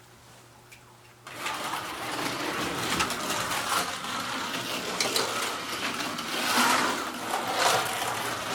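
Slot car running laps on the track, its small electric motor and gears whirring. The sound starts suddenly about a second in and then swells louder and softer again and again as the car comes by.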